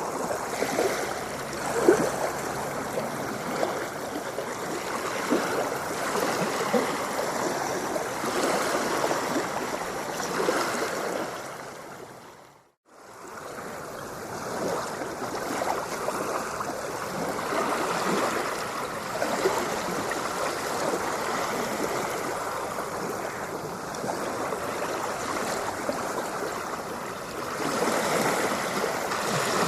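Ocean waves washing and splashing against the shore in a continuous, rolling wash. About twelve seconds in it fades to silence for a moment and swells back, like a loop point in the recording.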